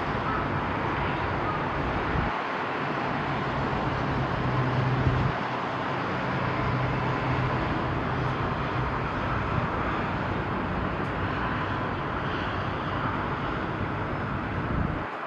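Outdoor harbour-side ambience: a steady rush of wind and distant traffic noise, under a low steady hum that swells for a second or so about four seconds in.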